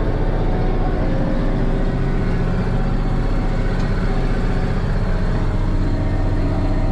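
Case 2670 tractor's turbocharged six-cylinder diesel running steadily under load while pulling a disc chisel through the soil.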